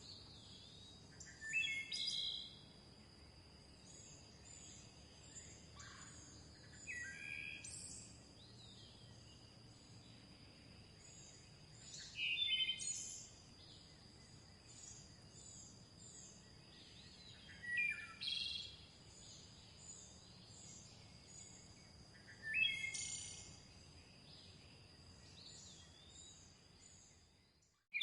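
Songbirds singing: one bird repeats a short phrase about every five seconds, with faint high chirps from others in between, over a steady thin high tone. The sound cuts off just before the end.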